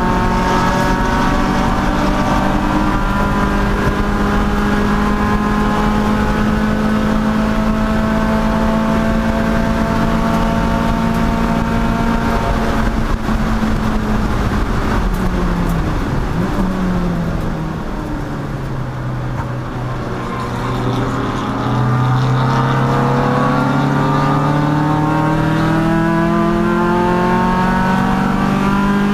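Race car engine held at steady high revs, then dropping sharply about halfway through as the car slows. It pulls low for a few seconds, then climbs steadily in pitch as the car accelerates again.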